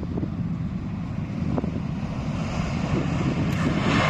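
Boeing 787-8 airliner on final approach, its jet engine noise building steadily over the second half as it nears, over wind rumbling on the microphone.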